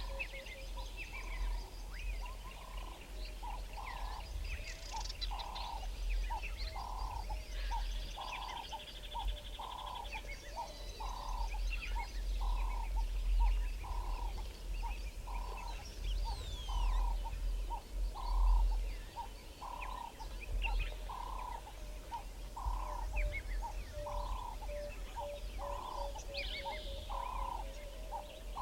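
Several birds calling in bushveld: one gives a steady series of short, low notes about once a second over a fainter, lower pulsed trill, while others add scattered higher chirps, trills and whistles. A low rumble runs underneath.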